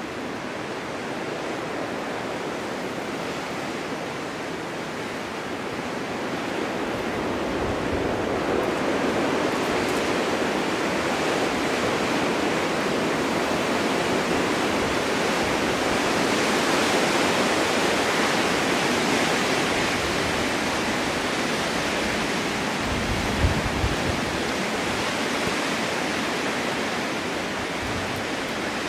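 Snowstorm wind blowing through a forest, swelling into a long gust that peaks past the middle and then eases. There is a brief low thump about two-thirds of the way through.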